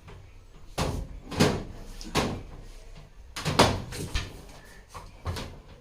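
A string of about six knocks and clatters, with the louder ones around a second and a half in and about three and a half seconds in, from parts of a top-load washing machine being handled and fitted.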